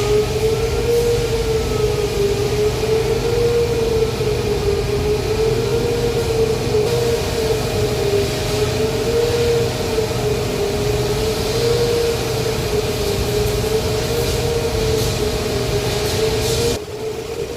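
Heavy industrial machinery running: a loud whine that wavers slowly up and down, about once every second and a half, over a steady hum and low rumble. The sound drops abruptly shortly before the end.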